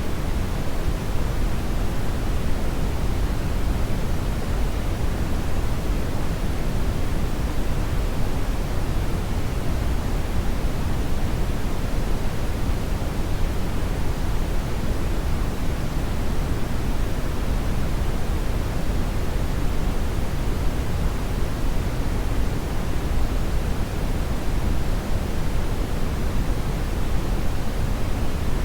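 Hair dryer running steadily: a continuous, even rush of blown air with no changes.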